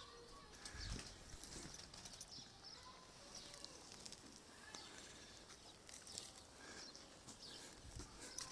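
Faint, scattered chirps of sparrows: many short, high calls, some overlapping, through the whole stretch.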